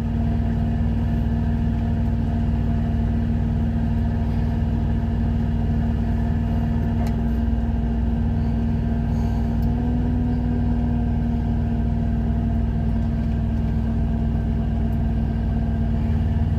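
Steady low drone of a parked truck's engine idling, with a constant hum and a few faint light clicks.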